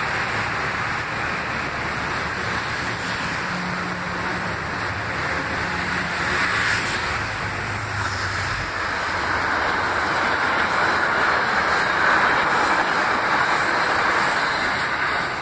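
Metro-North electric commuter train cars running past at close range: a steady rolling rumble of wheels on rail, with a low motor hum for a few seconds, growing somewhat louder in the second half.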